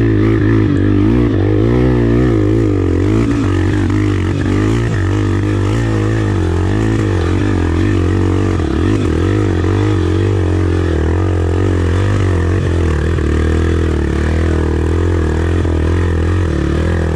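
Tornado 300cc single-cylinder dirt bike engine running steadily at low revs, its pitch wavering slightly up and down as the throttle shifts.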